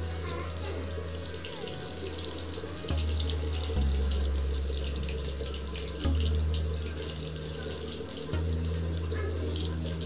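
Eggplant frying in hot oil in a small pan: a steady sizzle with fine crackling. Underneath runs a low hum that shifts pitch every couple of seconds.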